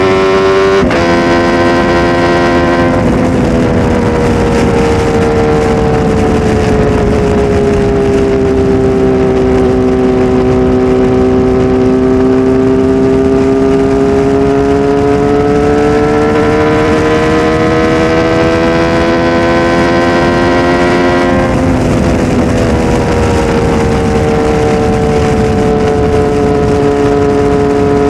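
Kawasaki Z H2 SE's supercharged inline-four engine running loud through a full aftermarket exhaust system. Its pitch drops suddenly about one second in, about three seconds in and again about 21 seconds in, and between those drops it sinks slowly and climbs back.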